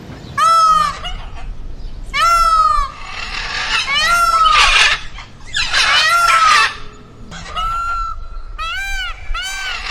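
Domestic fowl calling: a series of short arched squawking calls, each under a second, coming faster and overlapping near the end.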